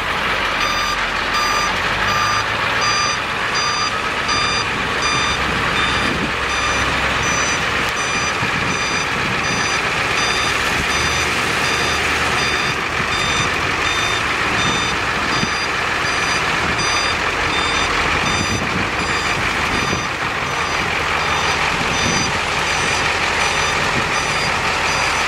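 Box truck's backup alarm beeping over and over at an even pace, over the truck's engine running.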